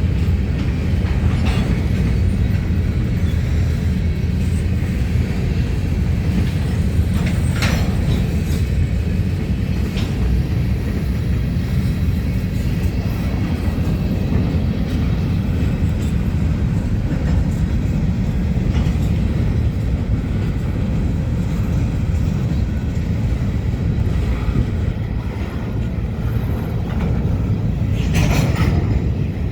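Ferromex diesel-electric freight locomotives running in a rail yard: a steady low engine rumble with a few sharp metallic clanks, the loudest near the end.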